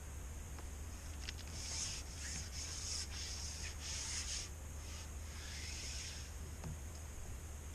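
Rustling, rubbing noise in a run of short scratchy strokes, over a low steady hum.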